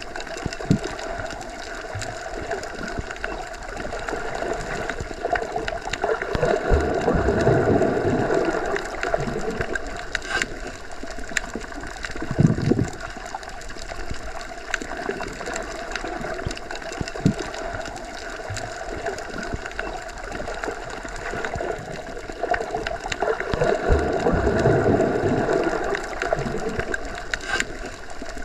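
Underwater ambience as heard submerged in a pool or lake: a steady muffled wash of water over a low hum. It swells louder twice, about seven seconds in and again about twenty-four seconds in, with a few faint clicks.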